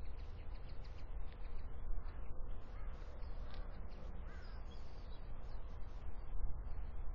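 Outdoor ambience with a steady low rumble and a few faint bird calls. The clearest is a short wavering call about four seconds in.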